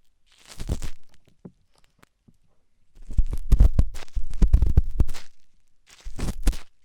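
Forceful ear-cleaning scraping and rubbing in a microphone's ear, heard very close with a deep rumble: a short burst, a near-quiet pause with faint ticks, then a long stretch of hard scraping and another short burst near the end.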